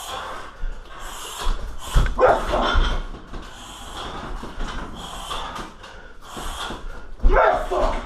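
Strikes landing on a 60 kg heavy bag: dull thumps about two seconds in, again shortly after, and a heavy one near the end, each with a short, sharp cry.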